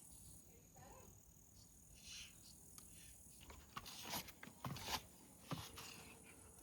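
Faint, steady high-pitched insect chirring, which fades out about halfway through, followed by a handful of sharp clicks and knocks.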